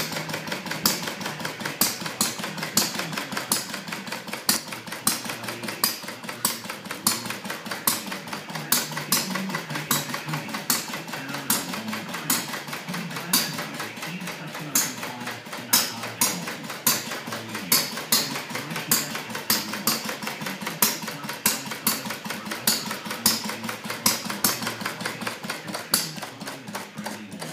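Edgar Westbury Centaur model engine running on its first run: a fast train of sharp mechanical clicks, with louder pops about once a second.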